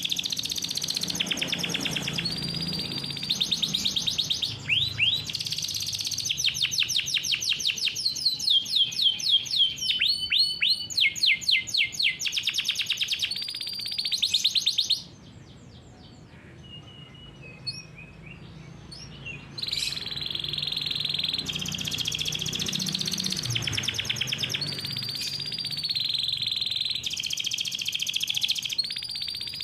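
Domestic canary singing a long, fast song of rolling trills and rapid repeated notes, with runs of downward-sweeping whistles. It breaks off for about four seconds around the middle, then resumes.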